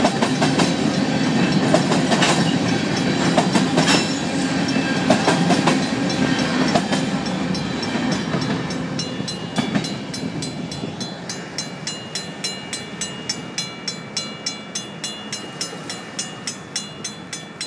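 Union Pacific covered hopper cars rolling past close by, their wheels clicking over the rail joints over a low rumble. After the last car goes by, about halfway through, the train noise fades as it moves off. The fast, even strokes of a Safetran mechanical crossing bell then come through clearly and stop right at the end.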